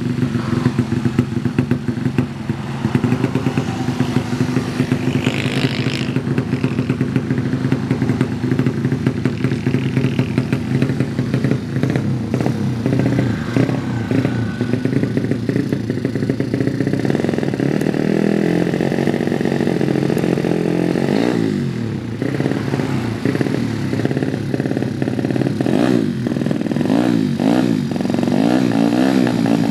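Yamaha Jupiter engine, bored up to 155 cc for drag racing, running steadily. It is revved up and down in short throttle blips about twenty seconds in and again near the end.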